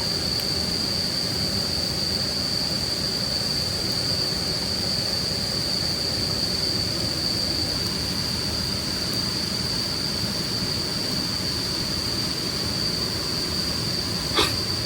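Crickets trilling in one steady, unbroken high-pitched tone over a steady rushing background noise, with a single sharp click near the end.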